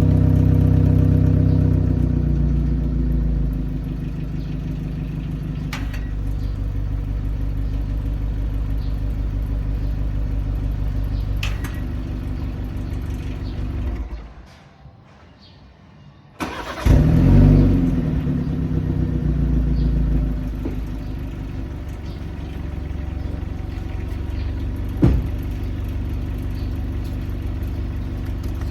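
BMW M car engine idling, then switched off for about two seconds and restarted. It catches with a loud flare of revs and settles back to a steady idle.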